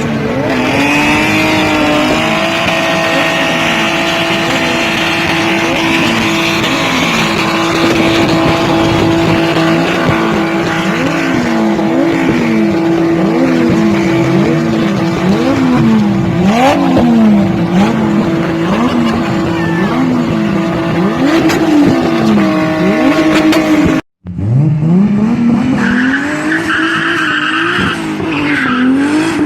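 Toyota Supra engine revving up and down about once a second over a steady tire squeal, as when the car is held in a drift. A sudden cut about 24 s in leads to another stretch of revving.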